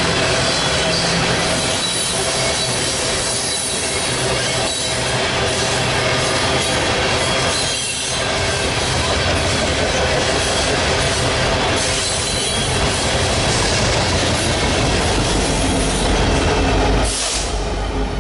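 A train passing close by: a loud, steady rush of wheels on rail with thin, high squealing tones from the wheels. It falls off sharply near the end.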